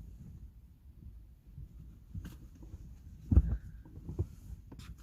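Inside a small car cabin, a few short knocks and clatters of handling, the loudest a thump about three and a half seconds in, over a steady low rumble.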